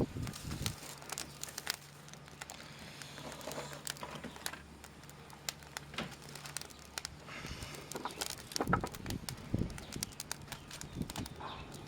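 Twigs and feather sticks crackling and popping irregularly as they catch and burn in a twig stove.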